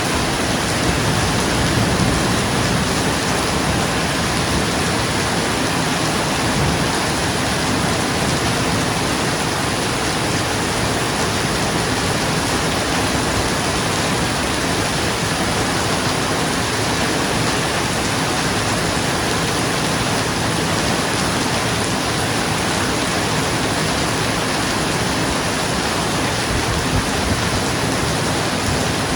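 Steady heavy rain falling on a roof, an even hiss and patter.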